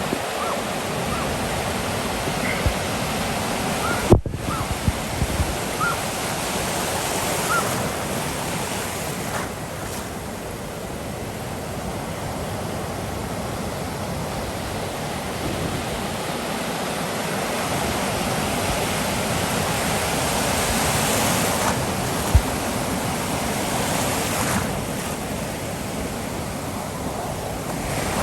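Ocean surf washing and breaking steadily, swelling and easing, with wind on the microphone. A few faint short high chirps come in the first several seconds, and there is a sharp click about four seconds in.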